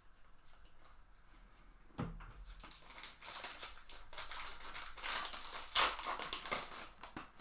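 A trading-card pack wrapper being torn open and crinkled, starting with a sharp tear about two seconds in and continuing as irregular crackling.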